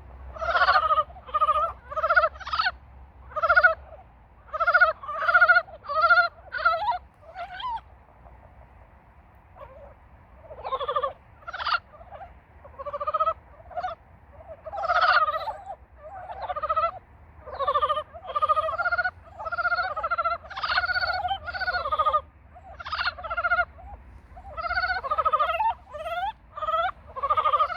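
Frogs giving their mating calls: a rapid series of short, pulsed croaks, sometimes overlapping as several frogs call together, with a brief lull about eight seconds in before the chorus picks up again.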